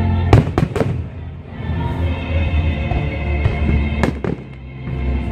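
Aerial fireworks shells bursting over music: three quick bangs in the first second, then two more about four seconds in.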